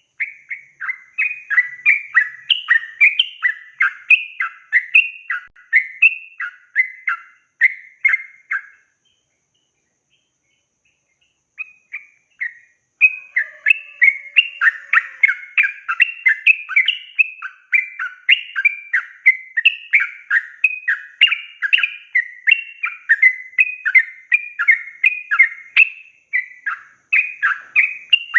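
Yellow-vented bulbul singing a fast, chattering song of short bubbly phrases, several a second. The song breaks off for about three seconds near the middle, then resumes.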